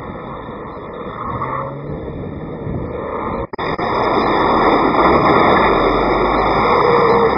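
Racing truck engine and vehicle noise, a dense steady rush; it drops out briefly about three and a half seconds in and is louder afterwards.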